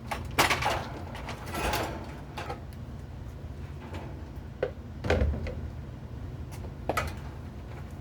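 Knocks and scraping from handling drain pipe and fittings during pipe work: a sharp knock about half a second in, a scrape soon after, and a few more knocks later, over a steady low hum.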